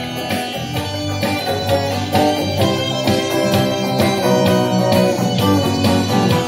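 Instrumental break of a song: guitar playing to a steady beat with backing accompaniment, no vocals.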